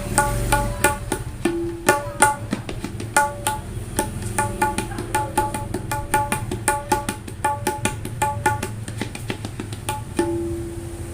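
Dangdut 'tak' hand drum with a three-layer skin head, played in a quick rhythmic pattern of crisp, ringing pitched strokes, tuned to sound like a tabla's dayan. Now and then a lower note rings on under the strokes.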